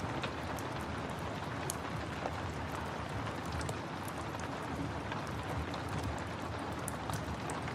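Steady rain with a wood fire crackling: an even wash of noise, broken by scattered sharp pops and clicks.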